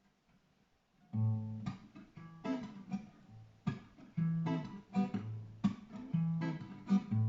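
Acoustic guitar playing a song's instrumental introduction: a low bass note followed by plucked and strummed chords, repeating in a steady pattern. It begins about a second in.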